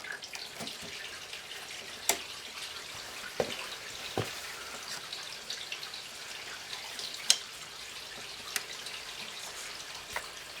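Hand tools and small metal parts clicking and tapping during engine work, about half a dozen sharp, irregularly spaced knocks over a steady hiss.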